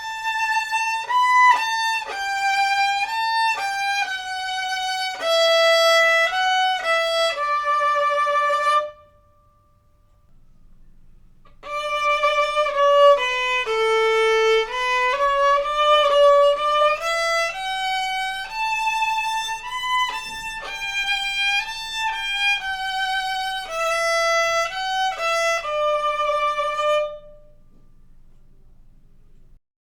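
A newly made violin played solo with the bow: a melodic phrase that ends about nine seconds in, a short pause, then a second phrase that runs until near the end.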